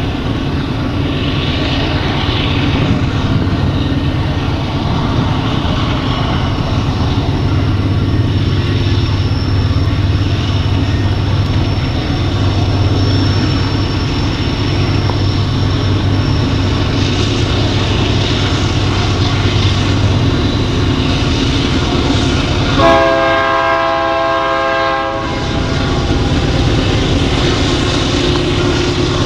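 Diesel locomotives of an underpowered BNSF Z-train running with a steady, heavy low drone as the train approaches. About 23 s in, the lead locomotive sounds its air horn for about two and a half seconds, a chord of several notes.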